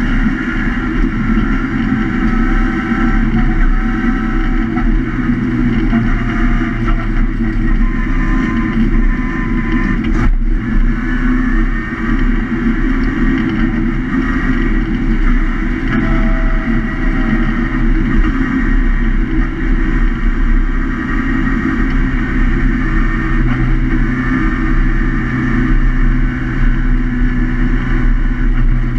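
A Swiftune-built BMC A-series four-cylinder engine in a pre-1966 FIA historic racing Mini Cooper, heard at racing speed from inside its stripped, roll-caged cabin. The engine runs hard, its pitch rising and falling with the throttle. There is a single sharp knock about ten seconds in.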